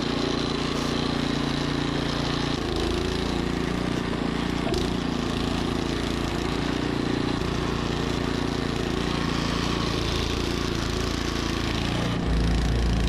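Troy-Bilt snowblower engine running steadily under load. Near the end it gets louder, with a deeper rumble.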